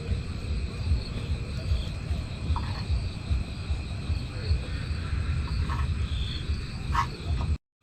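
Crickets trilling steadily over a loud, uneven low rumble, with a few short chirps; everything cuts off abruptly near the end.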